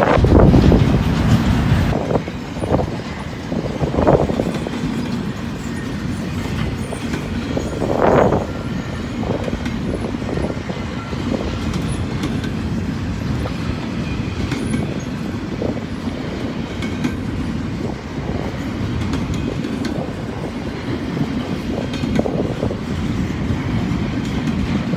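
Freight train cars rolling past, with a steady rumble and wheels clacking over rail joints. Louder surges come and go as individual cars pass.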